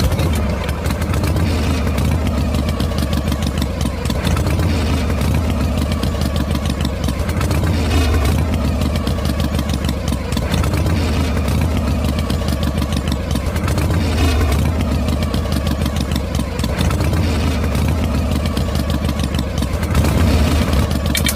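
A miniature tractor's engine running steadily with a fast, even pulse and a strong low hum.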